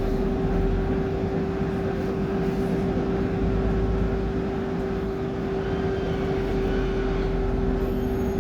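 Cummins engine of a BMC Procity city bus running steadily, heard from inside the bus: a low rumble with a steady whine held over it.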